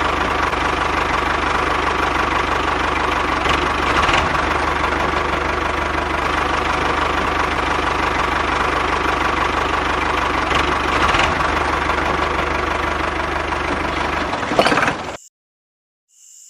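Miniature diesel engine running steadily with an even, fast knock. It cuts off abruptly about fifteen seconds in.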